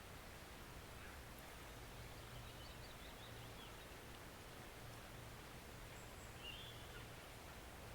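Faint steady rush of a woodland stream, with a few faint bird chirps about two and a half seconds in and again about six and a half seconds in.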